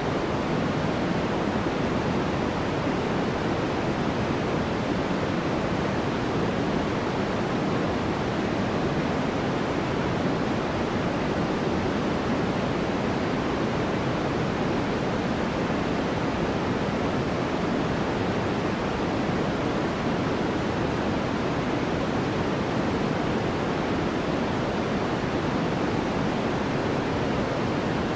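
Steady, unchanging sleep-aid white noise: an even hiss weighted toward the lower and middle range, softer toward the top, with no variation or events.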